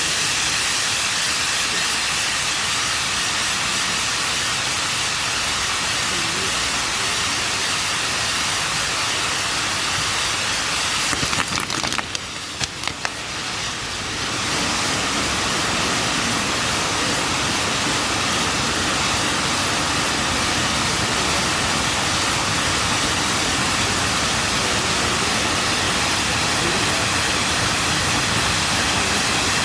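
Fireworks display sending up a dense, steady hissing and crackling. The noise briefly drops away with a few sharp cracks about twelve seconds in, then returns.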